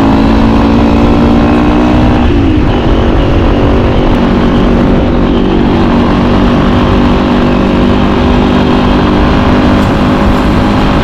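Motorcycle engine running steadily under way. About two seconds in, the engine note briefly breaks and settles a little lower, a gear change, then it holds an even cruise.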